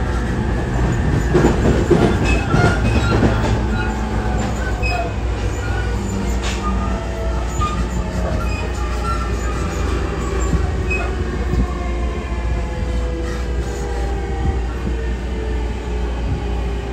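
Running sound inside a JR Musashino Line electric train car: a steady wheel-on-rail rumble with motor tones that fall slowly in pitch as the train slows, and a few knocks from rail joints in the first few seconds.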